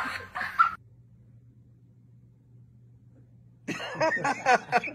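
A person's voice breaks off, then a pause with only a low steady hum. Near the end someone starts laughing in quick, repeated bursts.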